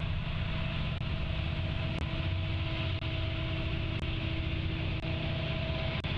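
Steady low rumble of an approaching diesel train, with faint ticks about once a second.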